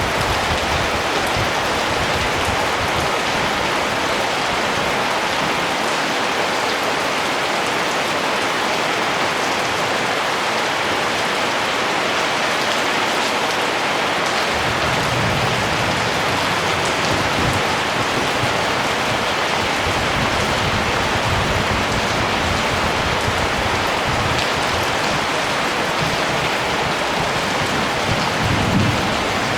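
Steady rain falling, an even hiss, with a few low rumbles in the second half.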